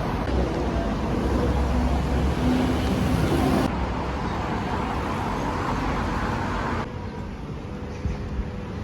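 City street traffic: a steady wash of car and road noise, with a brief low engine hum in the first half. The background changes abruptly twice, about a third of the way in and again near the three-quarter mark, as the footage cuts between shots.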